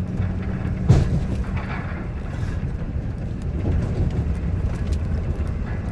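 2016 Ford F-250's 6.7L Powerstroke diesel engine running steadily as the truck pushes snow with its plow, with a single sharp knock about a second in.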